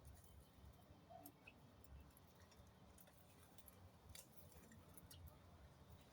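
Near silence: faint low background rumble with scattered faint ticks and clicks.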